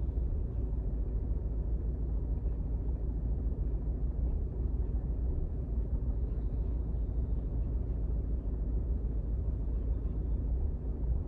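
Steady low rumble of a car on the road.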